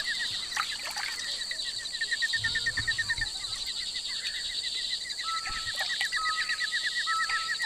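Rainforest wildlife chorus: a bird or insect chirping in a rapid repeated series that pauses midway and resumes, over a steady high insect drone, with a few short whistled bird notes in the second half.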